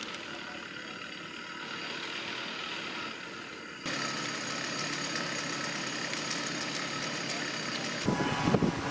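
Diesel truck engine running steadily while the truck pulls a fallen tree out of a house. The level steps up suddenly about four seconds in, and a louder, rougher rumble comes in near the end.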